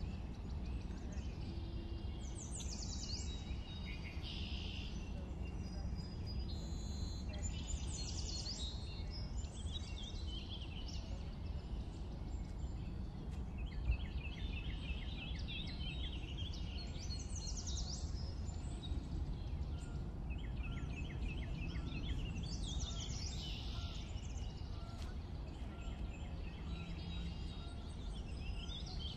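Birds chirping and singing over a steady low background rumble, with one short knock about halfway through.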